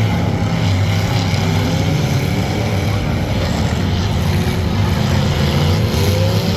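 A loud vehicle engine running steadily, its low pitch wavering slightly.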